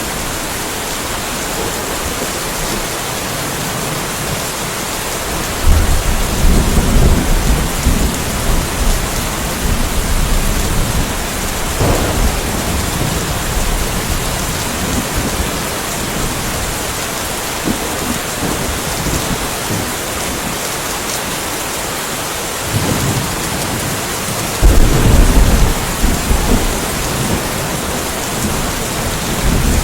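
Steady rain falling in a light thunderstorm, with rolling thunder: a loud low rumble about six seconds in lasting a few seconds, a brief fainter one around twelve seconds, and another loud rumble about twenty-five seconds in.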